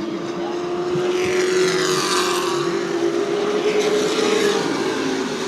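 Race truck engines running at speed on the oval, with a steady engine note that slowly rises. A truck passes close about two seconds in, and another about four seconds in.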